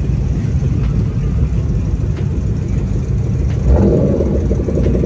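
Car engine running with a low rumble, growing louder with a sudden rise about three and a half seconds in.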